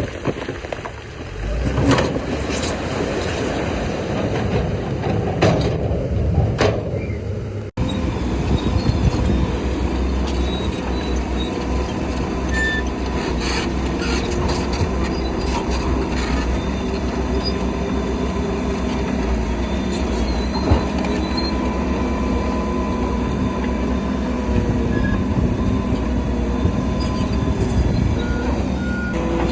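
Crawler bulldozer's diesel engine running under load, with its steel tracks squealing and clanking. The sound breaks off for an instant about eight seconds in, then goes on steadily.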